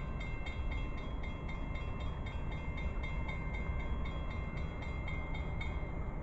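Steady low rumble of an approaching train, with a bell ringing in quick, even strokes, about four to five a second, that stop near the end.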